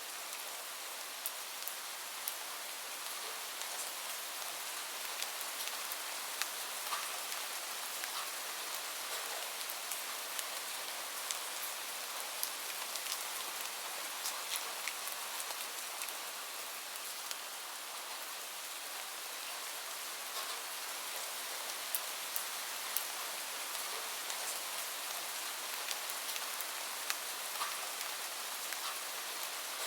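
Steady rain falling, an even hiss with many scattered sharp little ticks and clicks through it.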